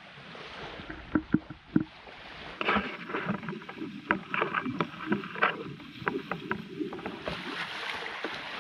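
Irregular knocks and clatter of gear being handled against a kayak, a few sharp ones at first and then a denser run of them.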